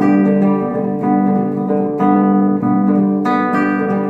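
Music: strummed acoustic guitar chords in a flamenco style, struck about once a second, with no singing.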